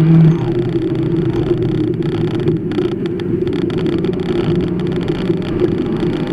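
Mazda 323's turbocharged B6T 1.6-litre four-cylinder engine pulling at steady high revs under load, heard from inside the stripped cabin, with a brief louder note right at the start.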